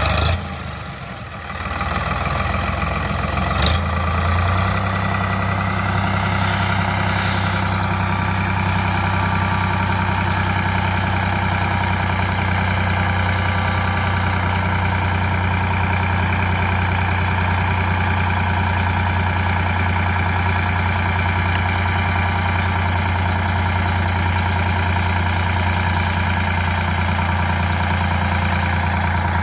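A tractor's diesel engine running steadily at idle. There is a brief knock near the start, and after that the engine note holds even.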